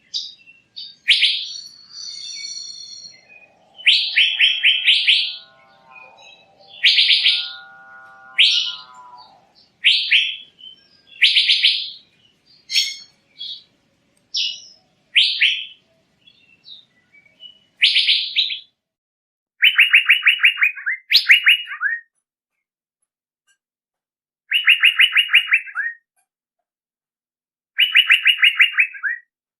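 Male Asian fairy-bluebird (cucak biru) calls: short phrases of fast, rattling notes, each about a second long, repeated with pauses of a second or more. For the first several seconds a lower, drawn-out sound with several pitches runs underneath.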